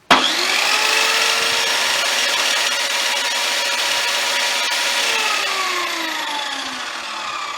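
Aldi Workzone HS80WZ benchtop table saw switched on and running free, with no wood being cut: the motor and blade whine up to full speed within about a second and run fairly noisily. About five seconds in it is switched off and winds down, its pitch falling.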